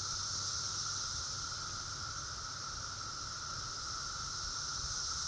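Chorus of periodical cicadas: a steady, unbroken drone with a higher hiss above it, many insects calling at once.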